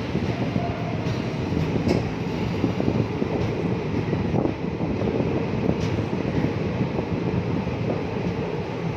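A train running on the tracks: a steady rumble with a few faint clicks from the wheels and track about two, four and a half, and six seconds in.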